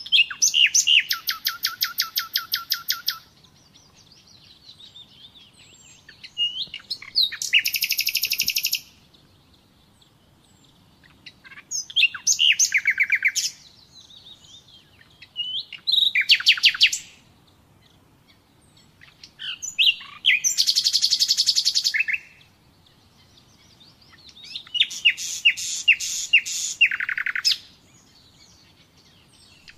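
Common nightingale singing: six phrases of rapid repeated notes, each lasting two to three seconds, with short pauses between them.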